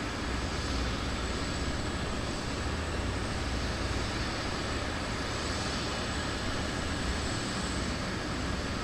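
Jet aircraft engines running, a steady rushing noise with a faint thin high whine over it.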